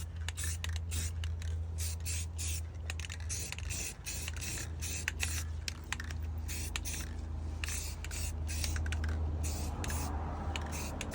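Aerosol can of satin protective enamel spraying in many short bursts of hiss, with a steady low hum underneath.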